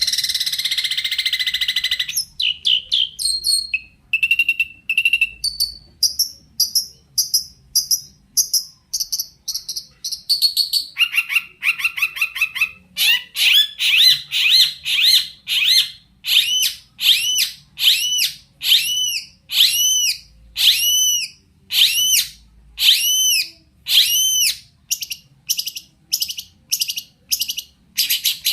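Long-tailed shrike (cendet) singing a varied song with mimicked phrases: a harsh buzzing chatter at first, then a string of short whistled notes and a rapid trill around the middle, and in the second half a run of repeated rising-and-falling whistles about one a second.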